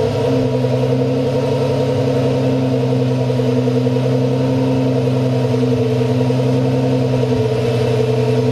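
Engine of a heavily modified classic Fiat 500, running loudly at a steady, held speed with an even pitch, through its twin exhausts.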